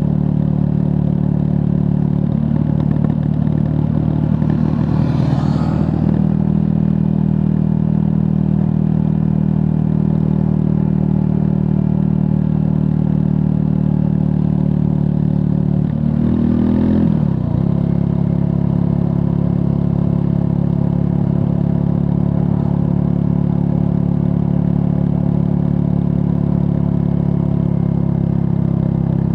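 Triumph Scrambler 400 X's 398 cc single-cylinder engine running steadily under way, its note shifting briefly twice, about three and about sixteen seconds in.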